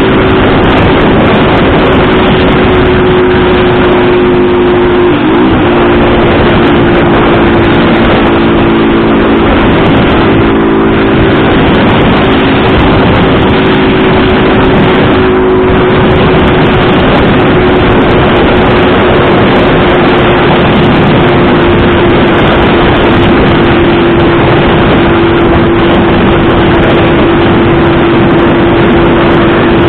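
Motorcycle engine running at a steady speed while riding, over a loud rushing noise. Its pitch wavers briefly about five seconds in, then holds steady.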